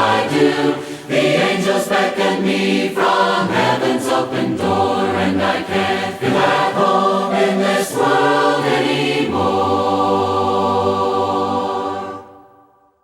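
An a cappella choir singing a hymn's closing line in several-part harmony. It ends on a long held final chord that fades out about a second before the end.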